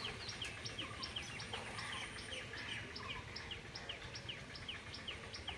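Birds chirping: a steady run of short, high, falling chirps, several a second, over a low steady rumble.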